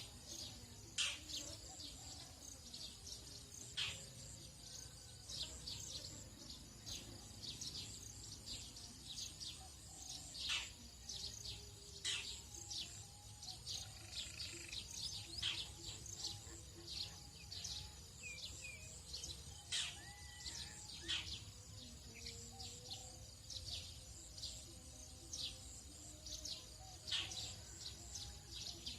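Tropical dawn chorus: many birds giving short, quick downward chirps again and again, over a steady high insect drone and a low steady rumble.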